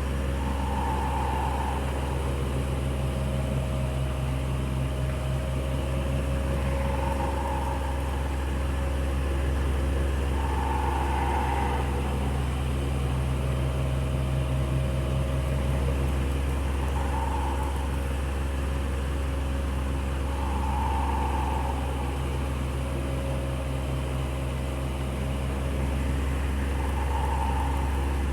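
Electric fan running steadily with a deep motor hum and airy whoosh, and a higher whine that swells briefly every four to six seconds.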